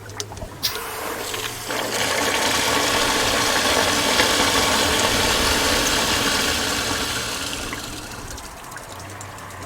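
Water and compressed air gushing and churning out of a water heater tank's drain while the tank is being flushed of sediment. The rush swells about two seconds in and tapers off near the end, over a steady low hum.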